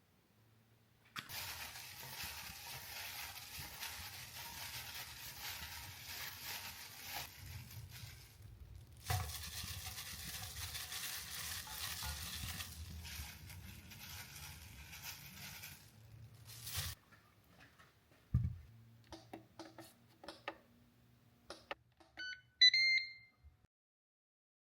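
A steady rushing hiss that breaks off briefly about eight seconds in and stops about seventeen seconds in, followed by scattered knocks and clicks. Near the end, a few short electronic beeps from an air fryer's control panel.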